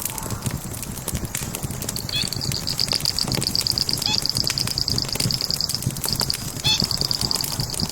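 Logs burning in a fireplace, crackling and popping over a steady low rustle. About two seconds in, a high, rapid pulsing trill starts and carries on with a couple of brief breaks.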